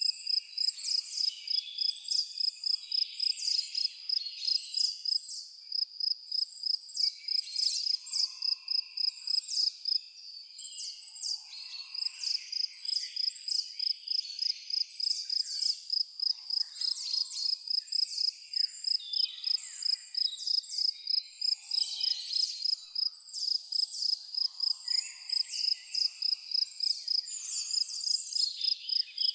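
Evening insect chorus: crickets chirping in a steady rhythm, about three chirps a second, with many other short, high chirping calls over it and a few faint lower calls now and then.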